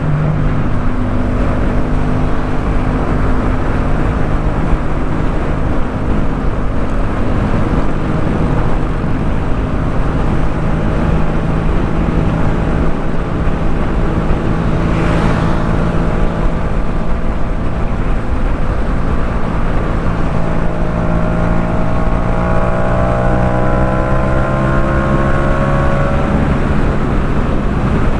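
Yamaha MT-07's 689 cc parallel-twin engine through a Jeskap K4 full aftermarket exhaust, running at steady cruising revs under wind noise. A brief rushing sound comes about halfway through, and the engine note rises gently near the end as it accelerates.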